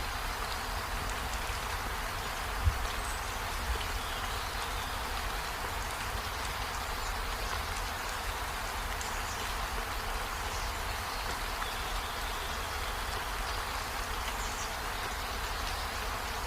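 Steady rainfall, an even hiss of rain with a low rumble beneath. There is one sharp thump a little under three seconds in and a softer one about a second later. Faint short high-pitched tones come through now and then.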